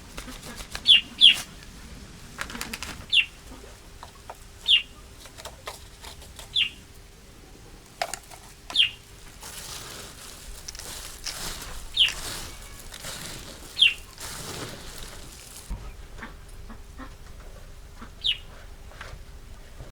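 A bird's short high call, repeated about nine times at irregular gaps of one to four seconds, each call falling in pitch. Soft rustling and small clicks run beneath, with a louder stretch of rustling in the middle that stops suddenly.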